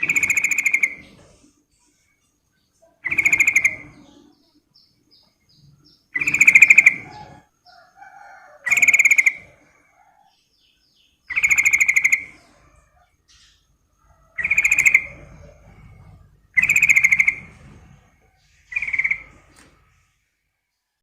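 Yellow-vented bulbul (trucukan) calling: eight short, loud, bubbly phrases repeated about every two to three seconds, the last one weaker.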